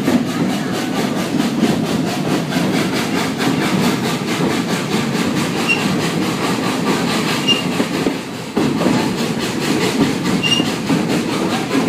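Heritage steam train running at steady speed, heard from aboard a passenger car just behind the locomotive's tender: continuous rumble and clatter of the cars' wheels on the rails.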